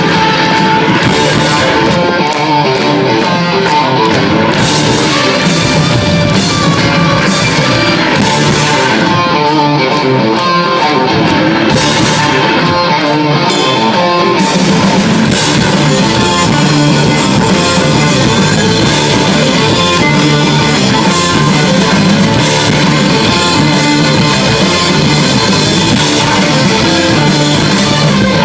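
Live hard rock band playing loud, with guitar riffs driven by a drum kit.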